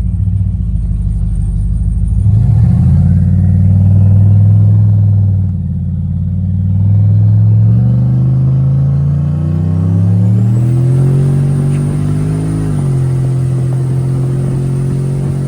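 Turbocharged Chevrolet Silverado engine accelerating hard through the gears. The engine pitch climbs, drops at a shift about five seconds in, climbs again and drops near the end before holding steady. A high turbo whine rises during the second pull and then holds.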